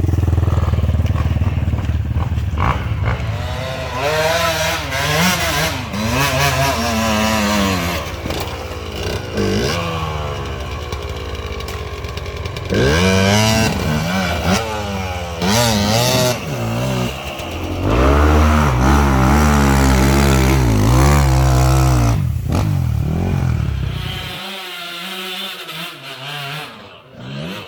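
Off-road motorcycle engine revving hard and falling back again and again under load in low gear. About 24 seconds in, the engine note drops away and it goes much quieter.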